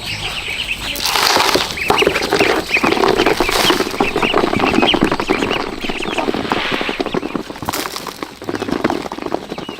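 A flock of poultry clucking and calling, with many short calls overlapping.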